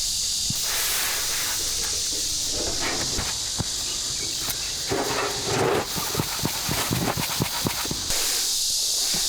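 Steady high-pitched drone of cicadas in summer heat, with irregular rustling and light knocks over it, busiest about five to six seconds in.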